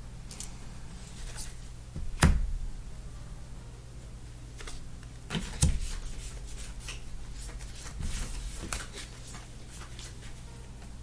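Trading cards being handled and set down on a tabletop: two louder taps about two and five and a half seconds in, then a run of light clicks and rustles. A steady low hum runs underneath.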